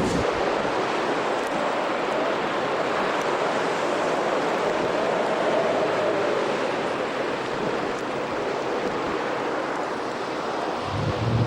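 Heavy storm surf from the ocean, breaking and washing in steadily, with wind on the microphone; the wash swells a little in the middle.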